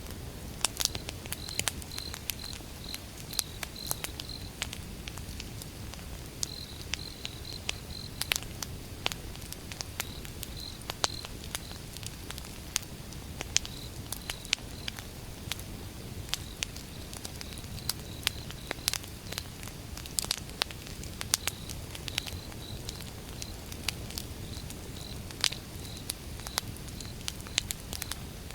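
Wood campfire burning, crackling with frequent irregular sharp pops over a low steady rush of flame. A cricket chirps throughout in short high trains of pulses.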